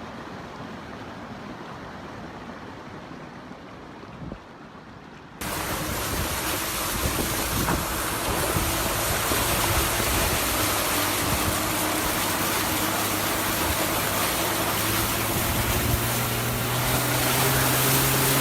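Low wind rumble on the microphone, then, after an abrupt cut about five seconds in, a loud steady rush of water with a vehicle engine humming steadily beneath it.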